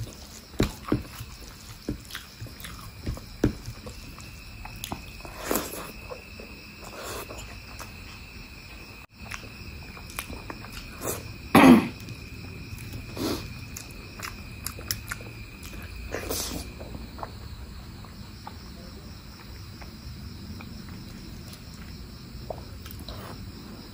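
Close-miked eating of mutton curry with rice: irregular wet chewing and mouth smacks, the loudest about halfway through. A steady high-pitched tone runs alongside until about two-thirds of the way in.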